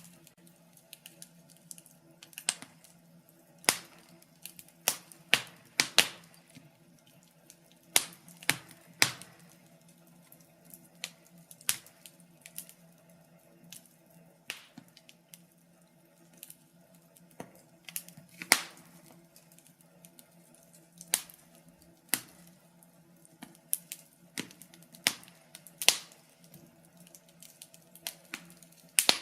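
Wood fire burning in a fireplace, crackling with irregular sharp pops and snaps, one or two a second, over a faint steady low hum. One of the loudest snaps comes a little past halfway.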